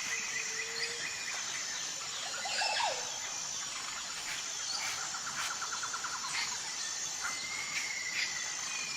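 Outdoor nature ambience: a steady, high insect chorus with several birds calling over it in short whistles and glides, and a rapid trill about halfway through.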